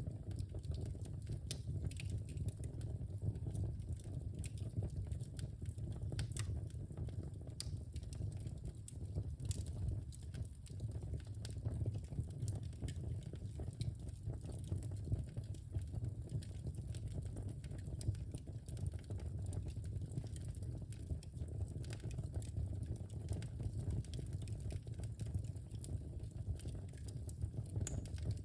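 Wood fire burning in a fireplace: a steady low rumble of the flames with frequent small irregular crackles and pops.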